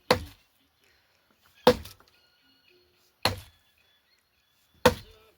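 Four heavy chopping strikes at an even pace, about one every second and a half, each a sharp thunk that dies away quickly.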